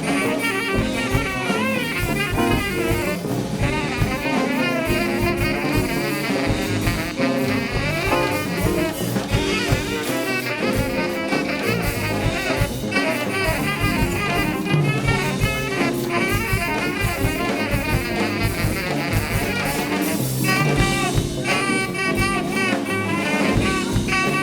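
Live band playing jazzy music, with saxophone and brass over a drum kit.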